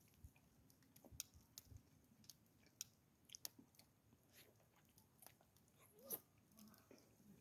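Faint chewing: scattered soft crunches and clicks.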